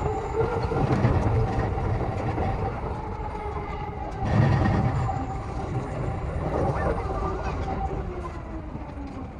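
E233 series electric train running, heard from the driver's cab: steady rolling rumble with motor tones that fall slowly as it slows toward a station, and a louder rumble about four and a half seconds in.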